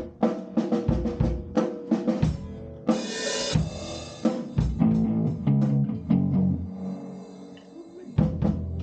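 Drum kit playing a loose groove of kick and snare hits, with a cymbal crash about three seconds in; the drums drop out for a few low held notes, then come back near the end.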